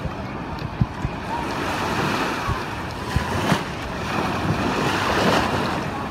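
Shallow surf washing up and over the sand at the water's edge, with wind buffeting the microphone in low thumps. The wash swells to its loudest about five seconds in.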